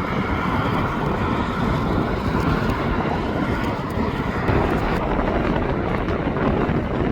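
Jet airliner's engines running, a steady loud rushing noise with no clear tone.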